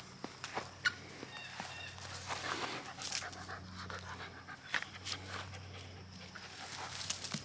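Mini Australian Shepherd panting, with scattered sharp ticks of steps and a faint low steady hum underneath.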